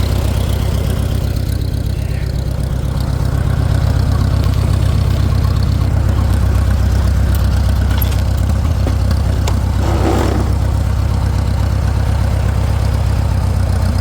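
Farmall 400 tractor's four-cylinder engine running steadily at a low, even speed. It is an engine that runs only on choke, which the owner puts down to an air leak. A brief faint extra noise comes about ten seconds in.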